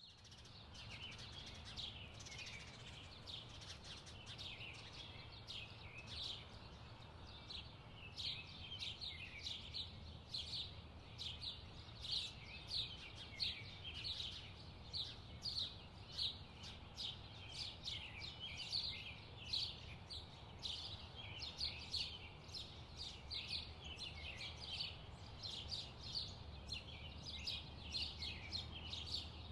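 Birds chirping: a run of short, high, downward-sweeping chirps, about two a second, over a faint steady low hum.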